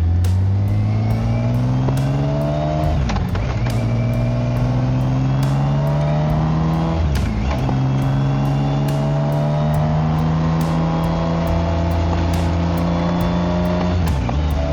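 BMW K1600GT inline-six motorcycle engine and exhaust under acceleration, the pitch climbing steadily and dropping sharply at upshifts about 3, 7 and 14 seconds in.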